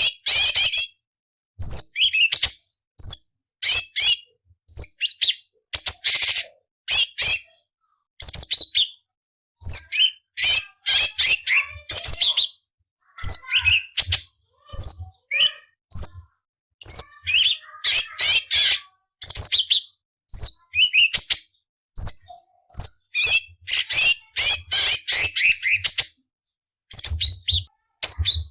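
Orange-bellied leafbird (cucak cungkok) singing in rapid bursts of high chirps, trills and harsh, scratchy chattering phrases. Each burst lasts from a fraction of a second to about two seconds, with short silences between them.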